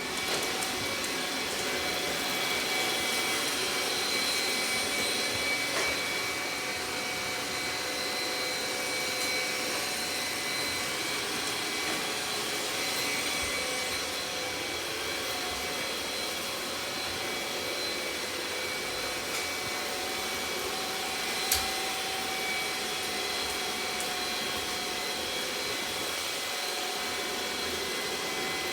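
Robot vacuum cleaner running steadily, a continuous whirring hum with a high whine. A single sharp click sounds about three-quarters of the way through.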